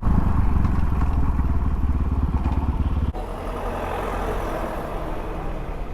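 Dirt bike engine running with rapid firing pulses, loud at first, then dropping suddenly to a quieter running sound about three seconds in.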